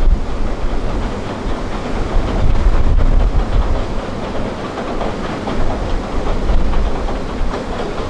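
Nagara Railway diesel railcars rumbling and clattering across a steel truss river bridge, heard from a distance, with wind gusting on the microphone.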